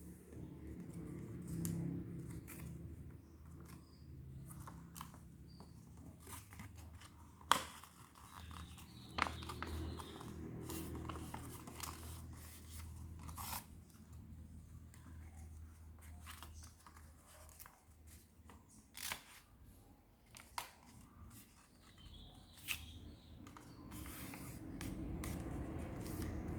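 Sheet of paper being handled, folded and creased by hand: irregular crinkles and sharp crease clicks over a low steady hum.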